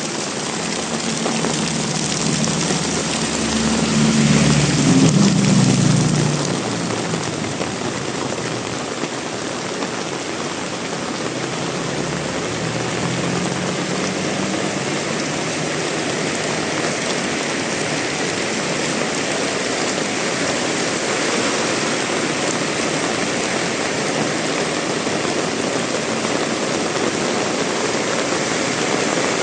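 Heavy rain pouring steadily. A low engine hum swells and passes in the first six seconds, loudest about five seconds in, and a fainter one passes around the middle.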